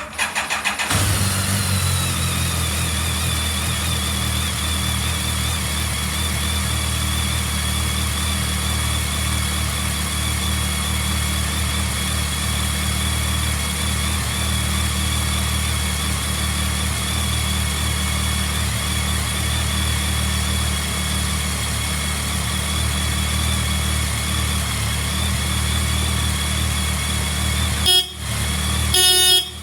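BMW K1200S inline-four engine cranked on the electric starter, catching within about a second and then idling steadily with a constant high whine over it. Near the end the sound breaks off briefly, followed by a short buzzing honk of the motorcycle's horn.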